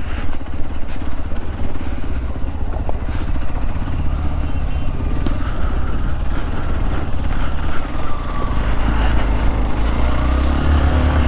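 Hero XPulse 200's single-cylinder engine running steadily while the motorcycle is ridden along, with a strong low rumble.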